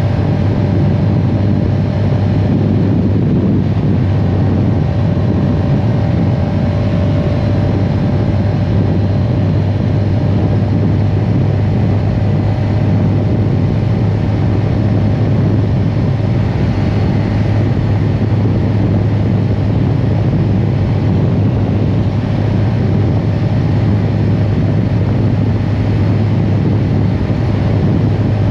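CFMOTO CLX 700 Heritage motorcycle's parallel-twin engine cruising at steady revs: a constant low drone with a rushing noise over it, no change in pitch.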